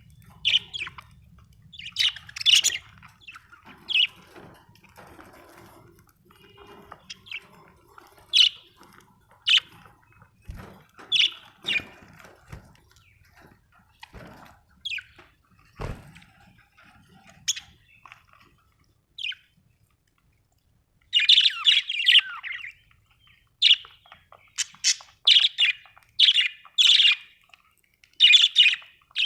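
Budgerigar chirping: short, scattered high chirps that run into a denser burst of chatter about two-thirds of the way through. A couple of low knocks fall in the middle.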